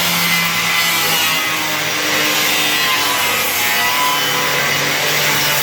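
Power tool cutting steadily through the welds of a car body panel, a continuous harsh grinding noise with a wavering whine.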